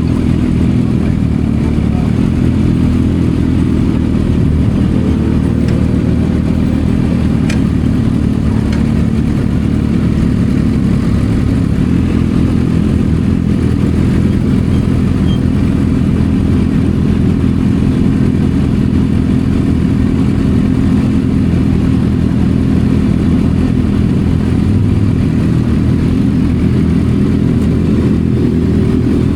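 Kawasaki ZX-6R's inline-four engine running through an M4 aftermarket exhaust, holding a steady engine speed with only a slight change in pitch about five seconds in.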